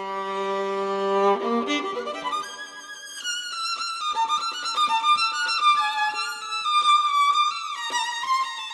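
Violin playing a melody. It opens on a long held low note, then moves into a flowing line of shorter notes.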